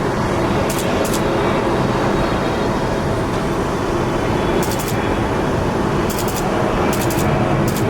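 Steady jet aircraft engine noise with a few faint held tones, overlaid by short high-pitched chirps that recur irregularly, about one a second.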